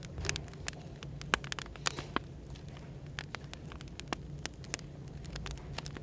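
Wood fire crackling, with sharp irregular pops and snaps several times a second, over a steady low hum of background white noise.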